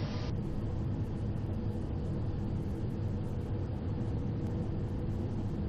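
Steady cockpit noise of a Cessna Citation XL business jet on short final with full flaps: an even engine and airflow rumble with a low steady hum.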